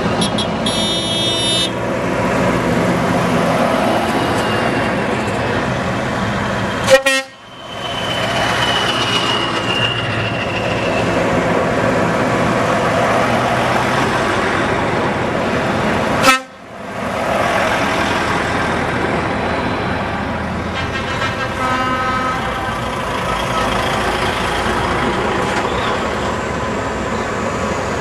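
Trucks in a convoy running steadily, with horns tooting near the start and again later on. Two sharp knocks, about nine seconds apart, each followed by a brief drop in sound.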